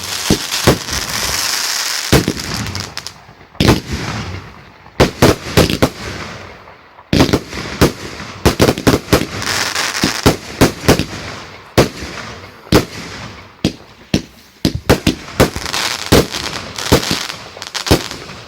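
Fireworks going off in quick succession: many sharp bangs, some in rapid clusters, over a continuous crackle and hiss from bursting shells.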